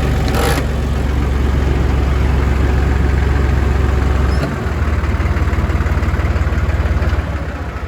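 Heavy vehicle engine idling steadily, with a short click just after the start. Its low note shifts about halfway through and drops again near the end.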